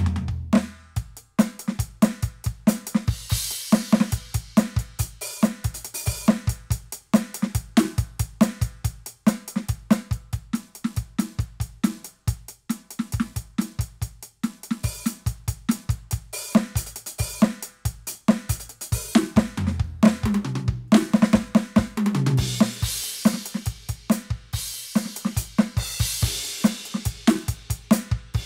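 Roland TD-17KVX electronic drum kit played in a steady groove of kick, snare and hi-hat, with cymbal crashes a few seconds in and again near the end, and a run of lower tom strikes a little past two-thirds of the way through.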